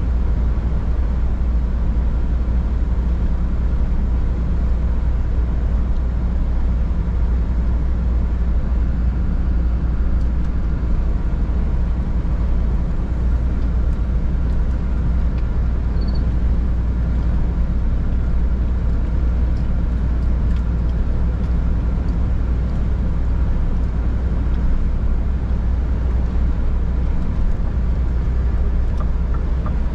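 Scania R 450 truck's straight-six diesel engine running steadily under way, a constant deep drone with road noise over it.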